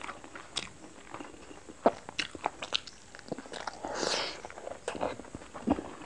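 Close-miked chewing and wet mouth clicks of someone eating a chutney-dipped steamed chicken momo, with a longer, louder wet bite about four seconds in.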